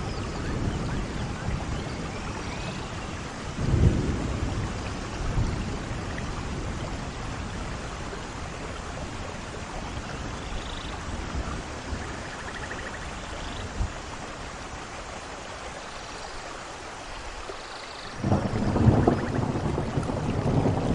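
Steady rain with rolling thunder: a rumble about four seconds in, then a louder peal of thunder from near the end.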